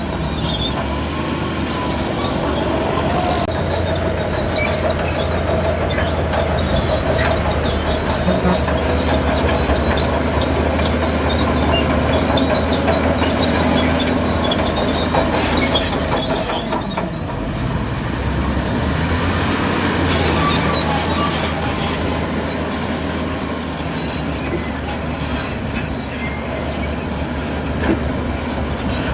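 Zoomlion crawler bulldozer's diesel engine running steadily while its steel tracks squeal and clank as it works.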